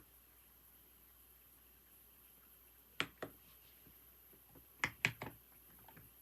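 A few scattered keystrokes on a computer keyboard: two about three seconds in, a quick run of four a couple of seconds later, and one faint tap near the end, with quiet pauses between them.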